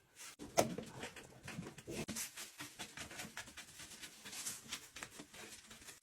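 A run of irregular light clicks, taps and knocks with some rustling, a few per second.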